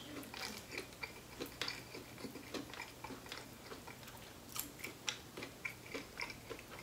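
Close-up chewing of fried chicken: irregular soft mouth clicks and smacks, a few a second, while meat is torn off a fried chicken breast by hand. A faint low steady hum lies underneath.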